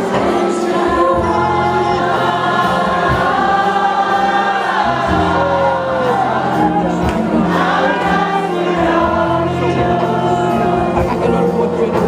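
Gospel choir singing with instrumental accompaniment, many voices holding sustained notes over a steady bass.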